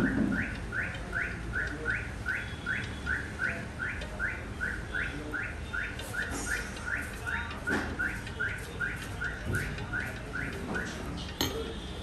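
A bird chirping over and over: a short rising chirp about two and a half times a second, stopping shortly before the end. A few faint small clicks of metal lock-cylinder parts being handled sound under it.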